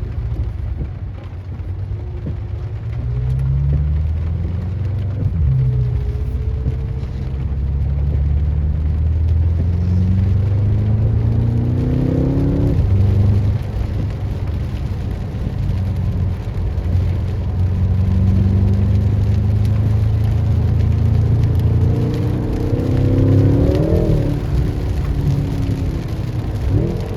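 BMW M6 Competition's twin-turbo V8 pulling hard through the gears, its pitch climbing and then dropping at each gear change, about halfway through and twice near the end.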